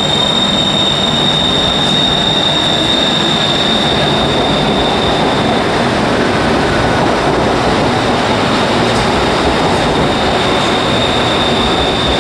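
Bangkok BTS Skytrain electric train running along an elevated station platform, a steady noise of wheels on rail, with a steady high-pitched whine over it.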